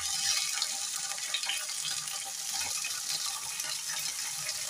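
Chopped cowpea (lobia) pods frying in hot oil in a kadhai just after being dropped in: a steady sizzling hiss with light crackles.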